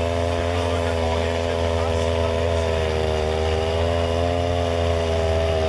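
Husqvarna 395 XP two-stroke chainsaw with a 28-inch bar running at a steady engine speed, ripping a plank lengthwise from a log. The pitch barely changes, with no revving, as the engine pulls through the cut.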